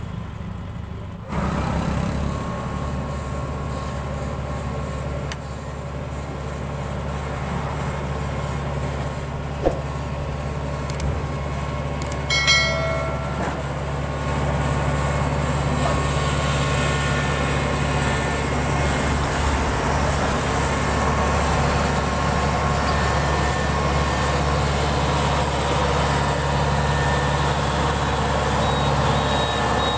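Diesel engine of a tracked rice combine harvester running steadily under load, with a low hum. It grows louder about a second in and again about halfway through, with a brief high squeal near the middle.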